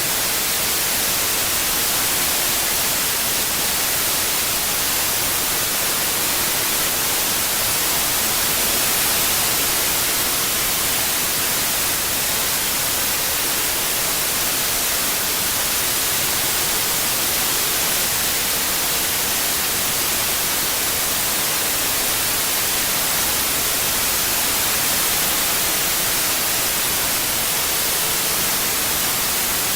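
Steady white noise: an even hiss with no breaks, brightest in the high treble, played as a tinnitus-masking sound.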